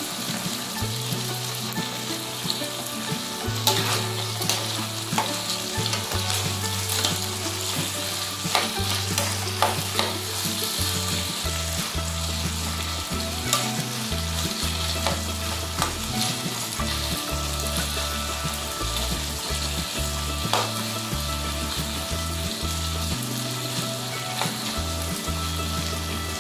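Diced pig's ears frying in hot oil in a nonstick pan, sizzling steadily. A spatula stirs and scrapes through them, its clicks thickest from about four to ten seconds in.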